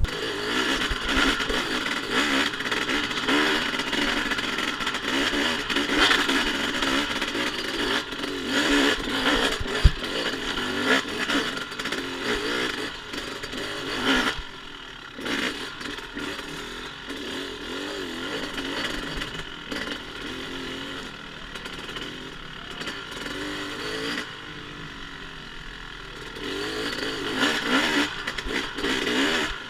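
Two-stroke dirt bike engine revving up and down while being ridden off-road, louder in the first half and quieter from about halfway through.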